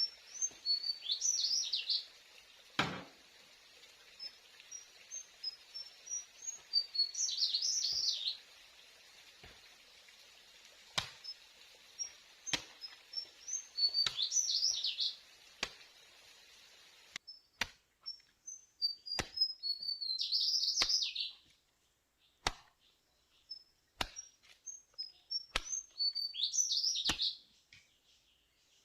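A songbird singing the same short, rapid phrase about every six seconds, with thin high chirps in between. Sharp light taps or knocks come about every second and a half throughout.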